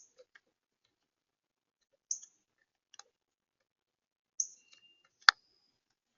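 Small birds at a feeder giving a few short, high chip notes, with soft clicks and one sharp click about five seconds in, the loudest sound.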